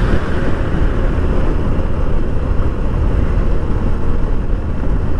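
Wind buffeting the microphone on a moving motorcycle, a loud, steady rush of low noise mixed with road and engine noise.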